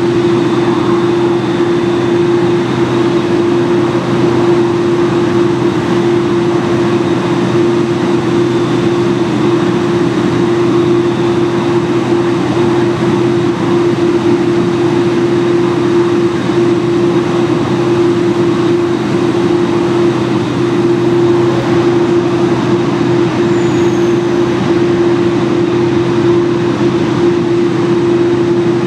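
Steady drone of a Boeing 747-8 idling on the de-icing pad, with a constant hum running unchanged throughout.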